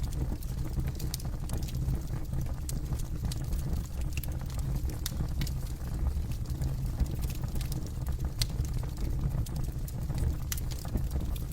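Campfire burning, with scattered sharp crackles and pops coming at irregular intervals over a steady low rumble.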